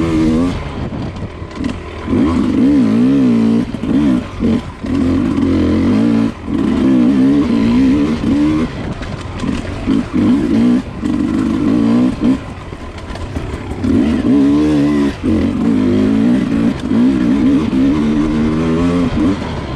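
Enduro dirt bike engine ridden on a trail, revving up and down as the throttle is worked, with short throttle-off dips every couple of seconds.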